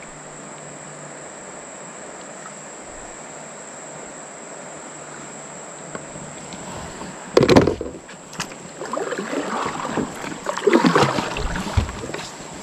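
Water splashing and sloshing in irregular bursts, the first and loudest about halfway through, over a steady high-pitched insect drone.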